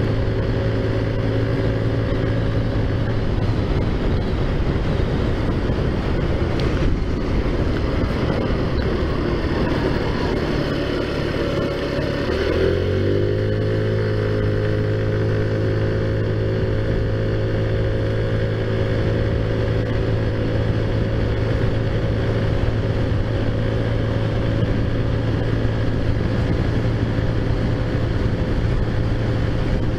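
Taotao Zummer scooter's single-cylinder four-stroke engine running steadily while riding. Its pitch dips once, about twelve seconds in, then holds steady again.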